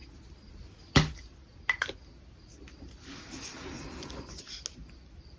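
Desk sounds of drawing with a brush pen: a sharp click about a second in, two smaller clicks just after, then about a second and a half of soft scratching of a brush pen tip across paper, and another click near the end.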